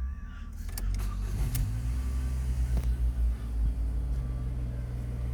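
Ford Mondeo 2.0 four-cylinder petrol engine (CJBA) running on test. Its pitch shifts briefly about a second and a half in, with a few clicks early, and then it settles into a steady idle.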